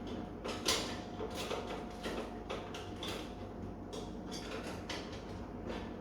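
Irregular light clicks and knocks, like things being handled, over a steady faint hum.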